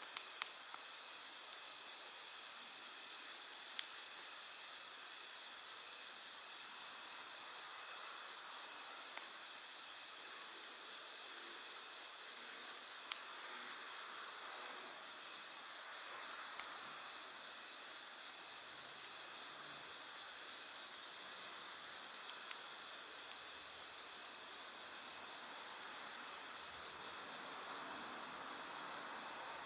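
Night insects, crickets, calling steadily: a continuous high trill with a second pulsed chirp repeating every second or so. A few sharp crackles from a wood fire break in now and then.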